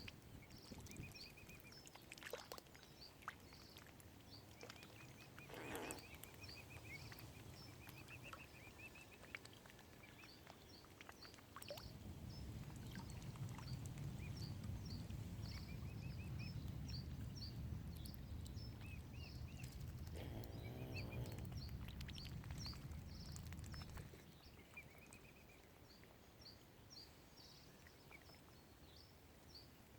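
Mute swan cygnets peeping over and over in thin, high calls. About twelve seconds in a low rumble comes up and becomes the loudest sound, then drops away near twenty-four seconds.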